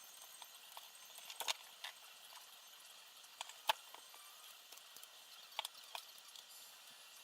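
Irregular sharp clicks and taps of small hard parts and tools being handled during quadcopter assembly, about eight in all, over a faint steady hiss.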